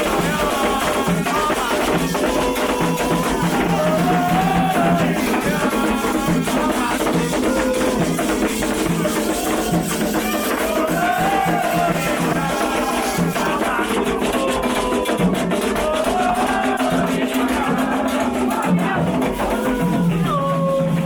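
Candomblé chant: a sung melody over steady, dense hand percussion, continuing throughout.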